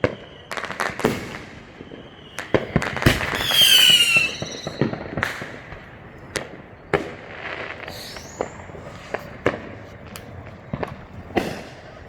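Consumer fireworks going off, with sharp bangs and pops scattered throughout. About three seconds in, a whistling firework sounds for about a second, its pitch falling; it is the loudest sound.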